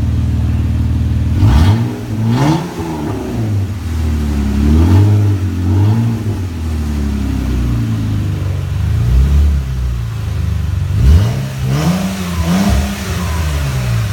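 Jeep Wrangler JK's 3.6-litre V6 idling through an aftermarket exhaust with an electronic cutout, revved up and let fall back to idle several times: twice soon after the start, again around five seconds in, and once more near the end.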